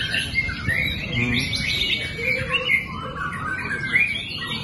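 White-rumped shama (murai batu) singing a fast, unbroken run of varied chirps and whistles.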